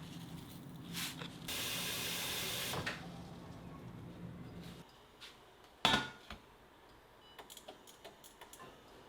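Household kitchen sounds: a low steady hum that stops about five seconds in, a hiss lasting about a second and a half, then one sharp knock and a few light clicks.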